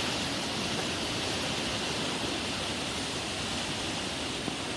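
Steady rain falling in a thunderstorm, an even, unbroken hiss.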